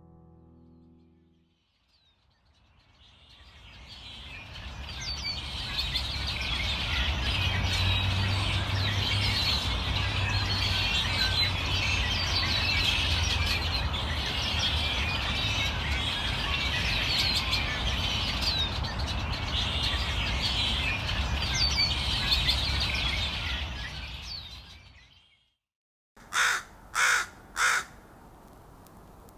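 A large flock of crows calling all at once, a dense, continuous chatter of many birds over a low rumble. It fades in, holds for about twenty seconds, and fades out. After a brief gap, four single loud crow caws follow in quick succession near the end.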